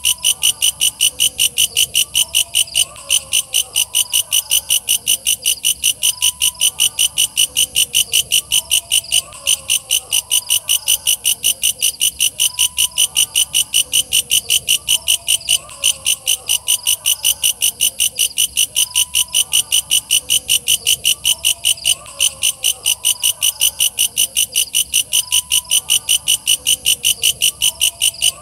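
Walang kecek katydid singing: a loud, shrill, fast pulsing call, about three pulses a second, with a few brief breaks.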